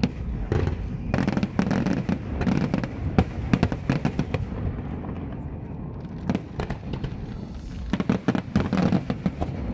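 Aerial fireworks shells bursting in quick succession, a dense run of bangs and crackles that thins out about halfway through and picks up again after.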